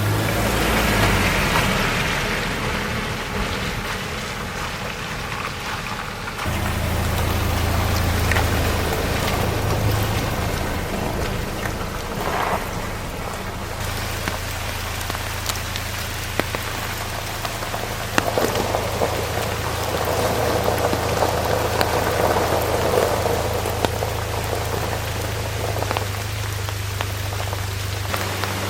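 Heavy rain pouring down: a dense steady hiss with sharp drops ticking on a surface, over a steady low hum.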